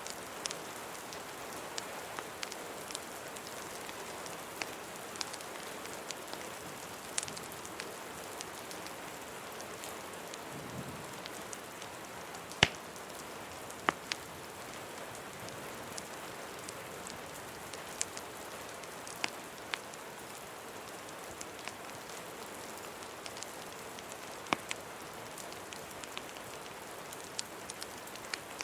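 Steady rain hiss with scattered sharp pops and crackles from a wood fire, the loudest about twelve seconds in.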